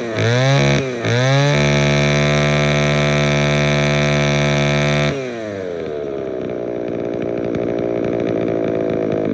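Small gas engine of a yard tool revved in quick blips, then held at high revs for a few seconds. It drops to idle about five seconds in and cuts off at the end.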